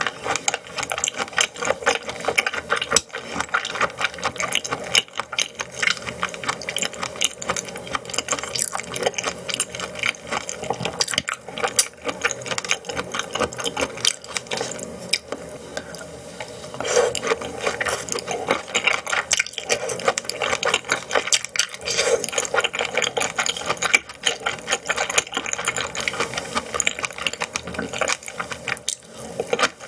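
Close-miked chewing of raw yellowtail sashimi: a dense, continuous run of wet mouth clicks and smacks.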